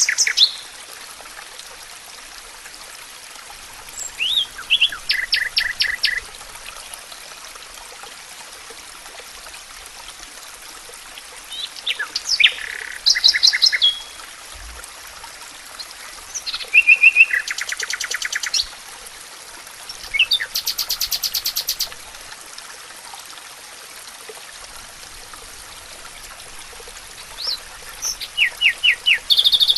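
Songbirds singing in the forest: short phrases of rapid repeated chirping notes, each about two seconds long, come every few seconds over a steady faint hiss.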